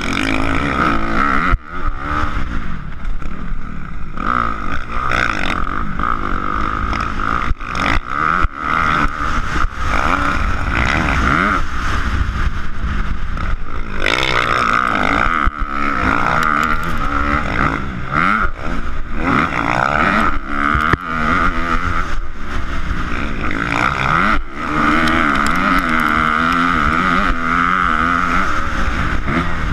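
Motocross dirt bike engine revving up and down as it rides, its pitch rising and falling repeatedly.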